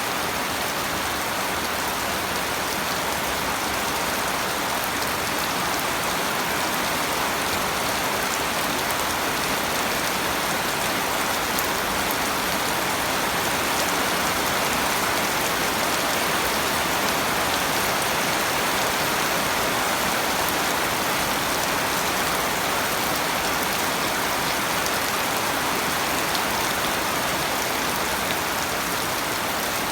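Steady rain falling, a constant hiss of drops hitting surfaces with fine scattered patter, unchanging in strength.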